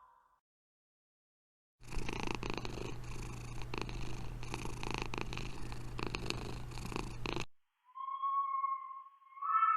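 Domestic cat purring steadily for about six seconds, cutting off suddenly. After a short gap, short high-pitched calls begin near the end.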